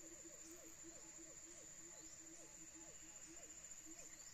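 Faint forest ambience of insects: a steady high-pitched buzz, with a low pulsing call repeating a few times a second and a few faint high chirps.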